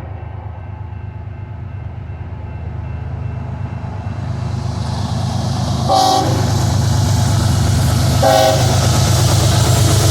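Approaching CSX freight train: the locomotives' low rumble and the rail noise grow steadily louder, and the locomotive horn sounds two short blasts, about six and eight seconds in.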